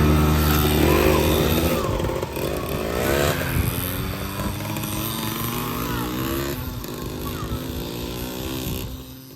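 Kawasaki KMX 125 single-cylinder two-stroke dirt bike engine running loud and close, revving up about three seconds in, then rising and falling through the gears as it fades away.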